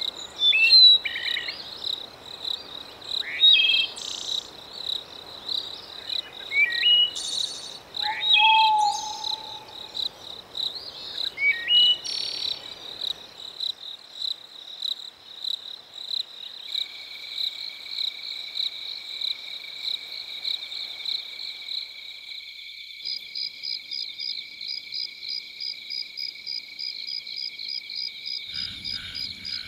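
Layered nature soundscape: insects trilling in a steady pulsing chirp throughout, with short rising bird calls over a soft rushing background for roughly the first half. After the rushing fades, more insect trills join in, and frogs start croaking right at the end.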